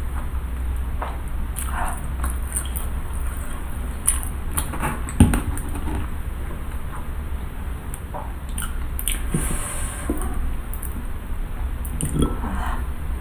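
Close-miked chewing of soft, chewy fried tapioca cireng filled with shredded chicken: scattered small wet, sticky mouth clicks and squishes, with a sharper click about five seconds in, over a steady low hum.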